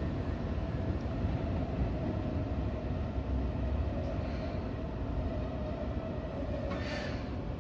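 Seibu 2000 series electric train moving out of a station, heard from inside the driver's cab: a steady low running rumble with a faint steady whine, and a short hiss about seven seconds in.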